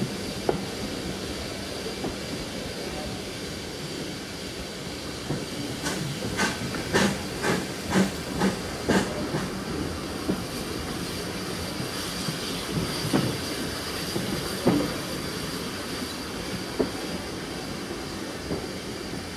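Passenger coaches of a steam-hauled train running along the track, heard from a carriage window: a steady rumble and rush, with a quick run of wheel clicks over rail joints, about two a second, around the middle, then a few single knocks.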